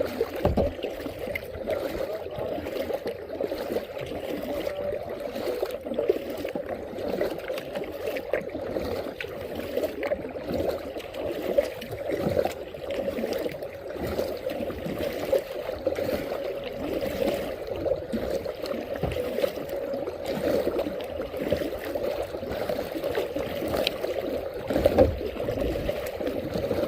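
Water trickling and lapping around a moving kayak, a steady wash with small irregular splashes.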